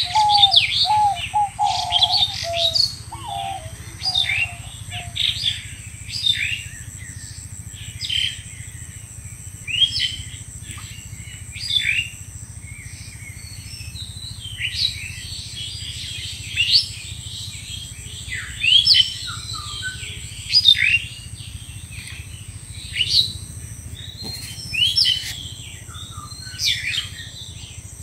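Birds chirping: repeated short, sharp, high chirps every second or two, with a lower warbling call in the first few seconds and a steady high whine underneath.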